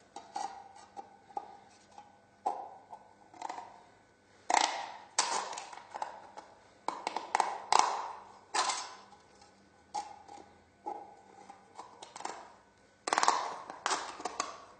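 Thin tin can being cut into in several places: an irregular string of sharp metallic clicks and snips, many of them ringing briefly in the can's thin metal.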